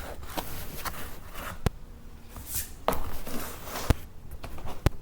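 Shuffling and rustling with a few sharp clicks and knocks, three standing out, as floor tiles are handled and set in place.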